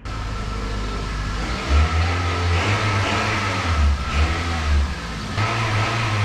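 A 2000 Toyota Corolla's four-cylinder engine revving in several pulls, its pitch rising and falling, with a steady high whine above it.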